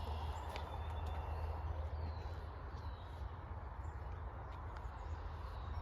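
Faint high calls of small birds, a few short downward-sliding notes, over a steady low wind rumble on the microphone and outdoor ambience.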